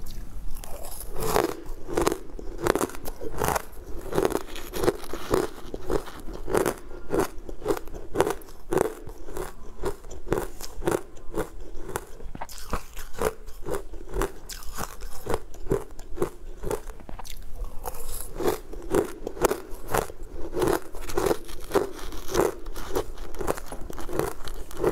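Crunchy chewing of a mouthful of crumbly green powdered food, heard close up, in a steady run of about two crunches a second that goes softer for a few seconds in the middle.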